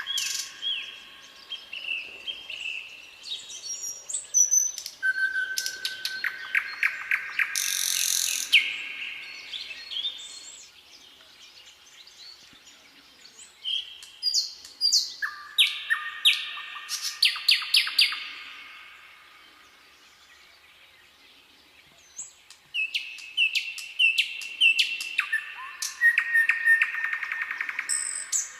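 Songbirds chirping and singing in quick trilled phrases, several calls overlapping, in bouts broken by two short lulls.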